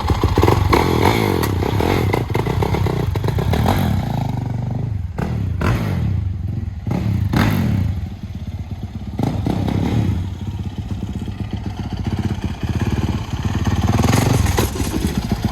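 2021 Yamaha YZ450F four-stroke single-cylinder dirt bike engine running through its FMF aftermarket exhaust. The engine speed rises and falls several times, with a few short knocks in between.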